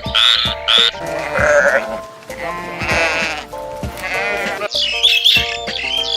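Sheep bleating twice, two wavering calls in the middle, over steady background music, with high chirping near the start and again near the end.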